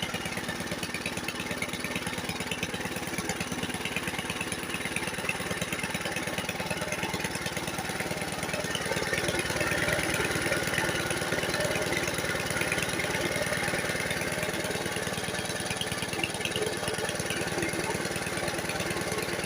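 A vintage lawn mower's 1972 Briggs & Stratton single-cylinder engine running steadily at a fast speed, its throttle lacking a return spring to keep it slowed down.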